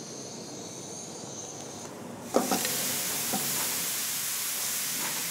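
A gas burner hisses softly, then a little over two seconds in raw pork pieces hit a hot frying pan and sizzle loudly and steadily as they are stirred.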